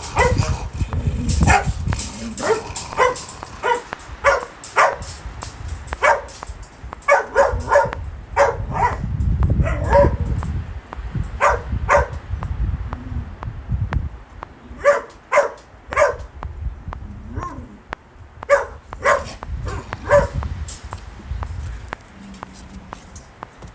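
A dog barking in short clusters of two to four barks with pauses between, over a low rumble of wind. The barks thin out near the end.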